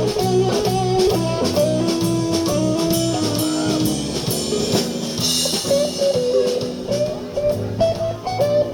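Live blues band playing an instrumental passage: electric guitar lead lines over bass and drum kit, with a cymbal crash about five seconds in.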